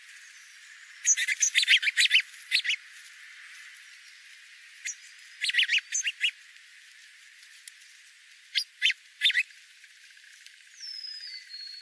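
Wild birds chirping in three quick bursts of short, sharp notes, with a single falling whistle near the end.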